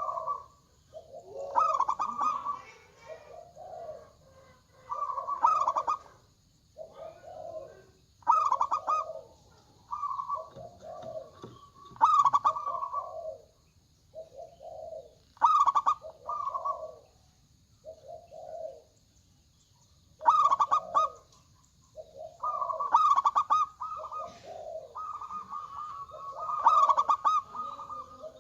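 Zebra doves (perkutut) cooing: a string of rolling, stuttering coo phrases every second or two, some lower and some higher, overlapping near the end as birds answer one another.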